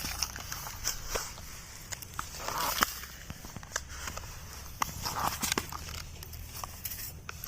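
Toy JCB backhoe scooping sand and tipping it into a toy truck: scattered clicks and scrapes of plastic on sand, with a few short gritty pours of sand.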